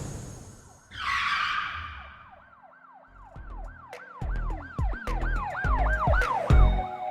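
Intro sound effects: a whoosh fading out, a second whoosh about a second in, then a fast electronic siren-like warble of rising-and-falling chirps, about three a second, joined by heavy bass hits from about three seconds in.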